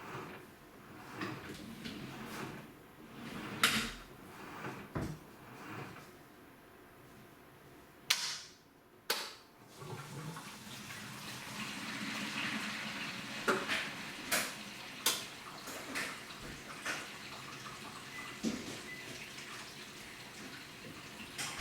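AQUA washing machine mid-cycle: water sloshing and churning in the tub, with scattered clicks and knocks. It goes quiet briefly partway through, then resumes with a steadier swishing.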